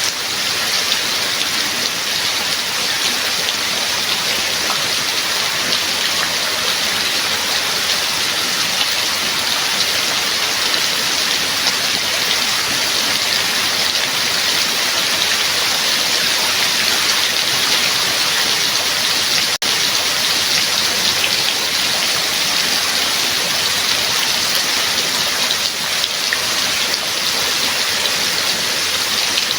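Steady rain, an even dense hiss of countless drops, with a split-second dip in the sound about twenty seconds in.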